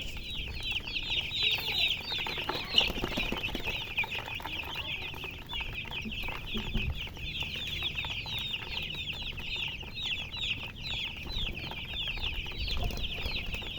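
A brood of baby chicks chirping continuously, many short, high, falling peeps overlapping, with a single sharp knock about three seconds in.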